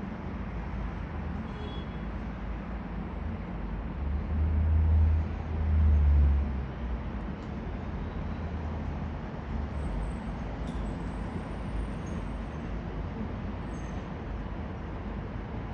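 Steady outdoor background rumble, swelling into two louder low rumbles about four to six seconds in.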